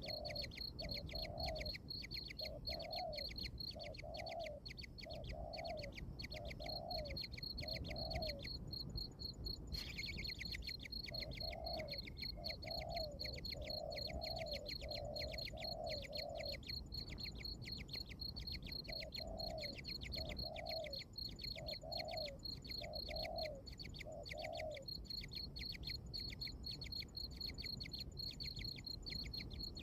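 A fast, steady, high chirping runs throughout, like crickets or cicadas. Over it come runs of low, repeated call notes at about two a second, in three series with pauses between.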